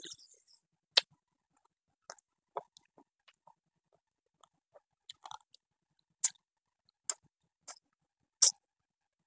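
A person eating close to the microphone: chewing and biting into spicy squirrel meat, heard as sharp wet clicks and crunches at irregular intervals, the loudest few near the end.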